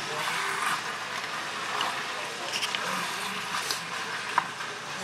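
Chicken sizzling in a frying pan as it is stirred with a wooden spatula: a steady hiss, with one light knock a little over four seconds in.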